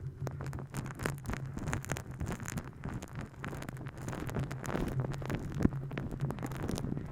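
Close-miked ASMR massage and tapping sounds on a microphone: dense, irregular crackly taps and rubbing, over a steady low hum.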